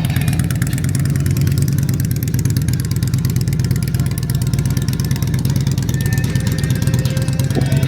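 Motorcycle engine idling steadily, with a fast, even exhaust pulse.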